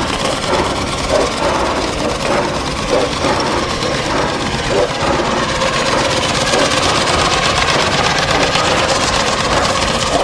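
An engine running steadily, with people talking over it.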